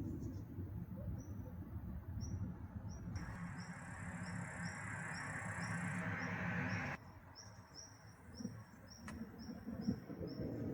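Outdoor ambience of short, high chirps repeated about twice a second, from a bird or insect, over low rumbling noise and a hiss that cut off abruptly about seven seconds in.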